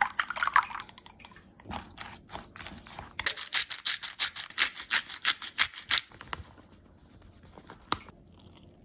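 A kitchen utensil scraping in quick rhythmic strokes, about five a second, for roughly three seconds in the middle, while the potato pancake mixture is being prepared, with scattered light clicks before it and a single click near the end.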